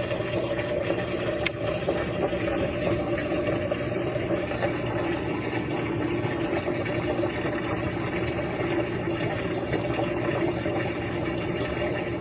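RCA RPW302 portable washing machine draining, its pump giving a steady, even motor hum as the water is pumped out from the bottom of the tub.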